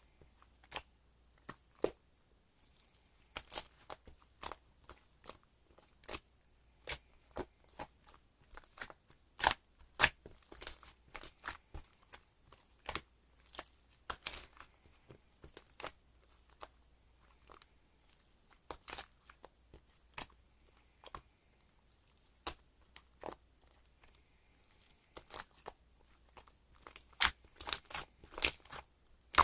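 Irregular sharp clicks and taps with some crinkly, crunchy handling noise, several a second at times, like small objects being handled and set down.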